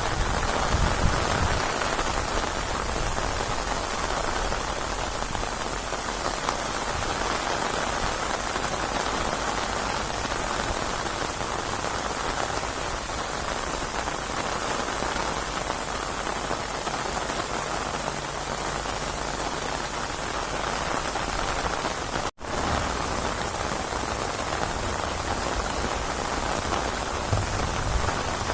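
Steady heavy rain pouring down, an even hiss, with brief low rumbles at the start and near the end. The sound cuts out for an instant about three-quarters of the way through.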